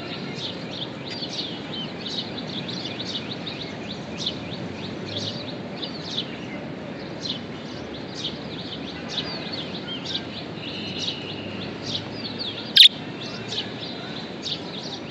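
Budgerigars chirping and chattering: a steady stream of short, quick chirps, with one louder sharp call near the end, over a steady low background noise.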